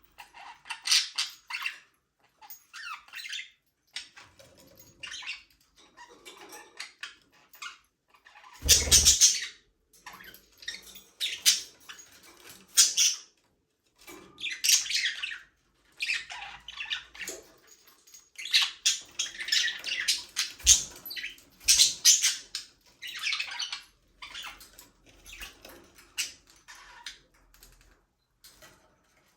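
Budgerigars chirping and chattering in a flock, in short bursts with brief pauses, with a louder squawk and a low thump about nine seconds in.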